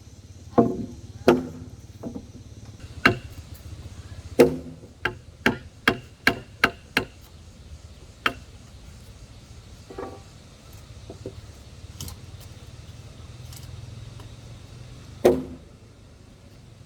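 A run of sharp, irregular knocks of hand-tool work on wood, close together for the first several seconds, then a few scattered strikes with one loud one near the end, over a low steady hum.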